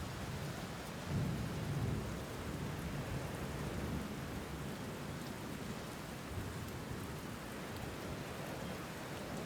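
Steady rain falling, with a low rumble of thunder that swells about a second in and fades away over the next few seconds.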